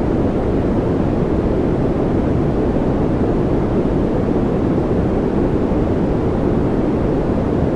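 Continuous white-noise track: an even, unchanging rushing noise, heaviest in the low and middle range with little treble hiss.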